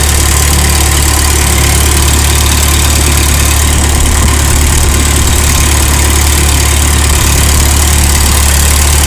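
Vintage farm tractor engine running steadily, a loud, even low drone with no change in speed.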